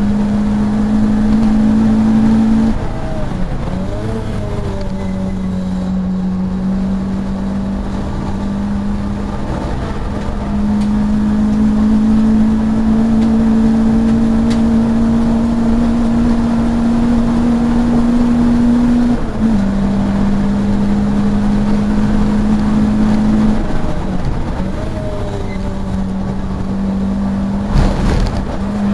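Saloon race car's engine heard from inside the cabin under hard running. Its note holds steady, then steps down and up with gear changes and brief dips off the throttle. A sharp thump comes about a second before the end.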